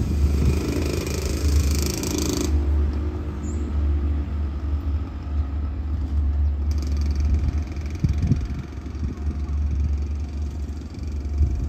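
Long passenger train running away along the track, a steady low rumble that eases off slightly as it recedes.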